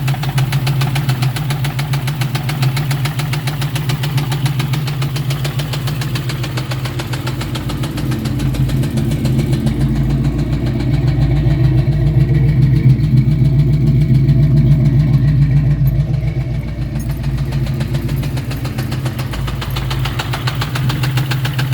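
1999 Ford Mustang GT's 4.6-litre two-valve V8 running with a rapid, even ticking knock throughout, the weird sound that the owner wonders may be a rod going out. For several seconds in the middle the sound turns duller and lower, then brightens again.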